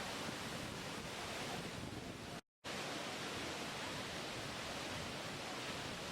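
Steady, even rushing-water noise with no swells, cutting out completely for a split second about two and a half seconds in, then resuming unchanged.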